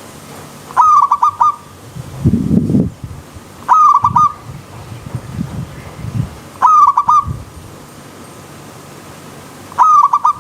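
Zebra dove (perkutut) calling: four short phrases of quick cooing notes, repeated about every three seconds. A lower, irregular sound comes between the phrases.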